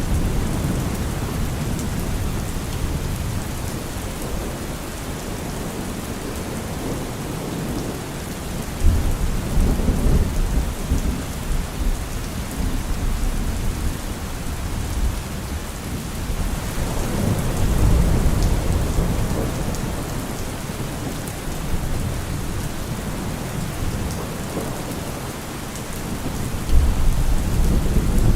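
Heavy rain falling steadily on a car roof. Low thunder rumbles swell in about nine seconds in, again around seventeen seconds, and once more near the end.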